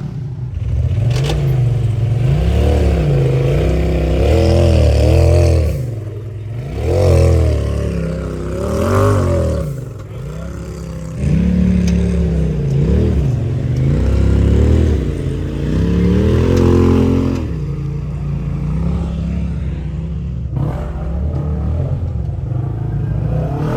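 Side-by-side UTV engine revving up and down in repeated throttle surges as it works up a climb, with some clatter. The revving eases off briefly about ten seconds in, picks up again, and settles into steadier, lower running for the last several seconds.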